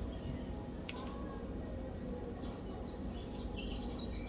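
Quiet background hum; about three seconds in, a bird chirps a quick trill of short, high, rapidly repeated notes. There is a light click about a second in.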